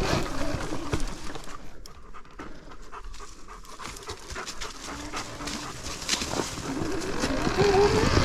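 A dog panting rapidly, quieter in the middle and louder again near the end.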